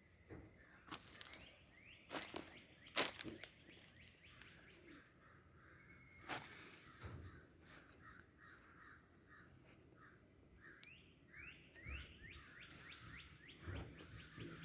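Birds singing faintly in rapid series of short rising chirps, with several sharp clicks or knocks standing out above them.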